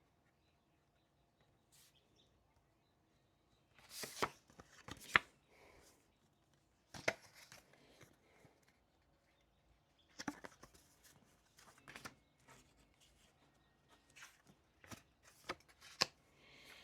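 Faint, irregular clicks, taps and rustles of small objects and paper being handled during desk study, in short clusters about four, seven, ten and fifteen seconds in, with quiet between.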